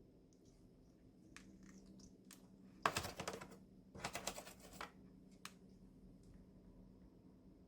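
A pet bird grinding its beak: two bursts of rapid clicking about a second apart, with a few single clicks before and after. Happy beak grinding, the sign of a content, relaxed bird.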